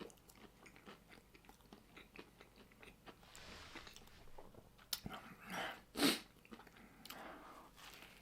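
Close-up chewing of a crunchy breaded chicken sandwich: soft crackling mouth sounds throughout, with a few louder crunches about five to six seconds in.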